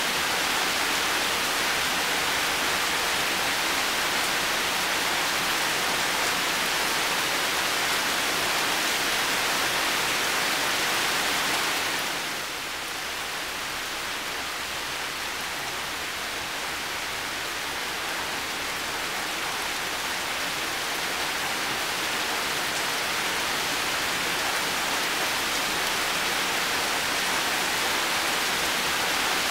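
Heavy rain falling steadily as a dense, even hiss. About twelve seconds in it suddenly eases a little, then slowly builds back to full strength.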